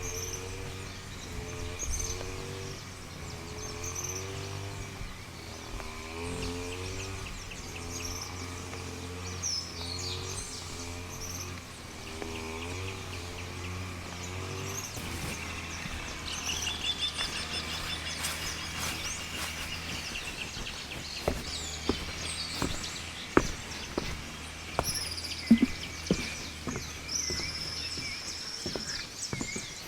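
Forest ambience: birds chirping and calling over a steady high insect drone, with a low wavering tone through the first half. Scattered sharp clicks and knocks come in the second half.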